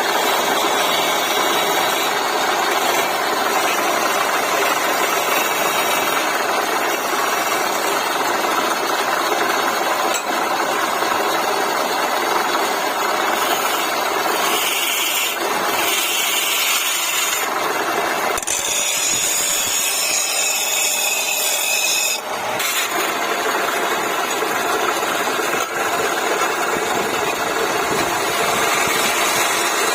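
Wood lathe running while a tool cuts into the spinning wood, a steady scraping over the machine's hum that changes in texture and picks up a high whine for a few seconds in the middle.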